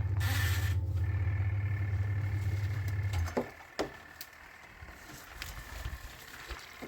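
Washing machine motor running with a steady low hum that cuts off about three seconds in, followed by a few light clicks and knocks in the quieter pause.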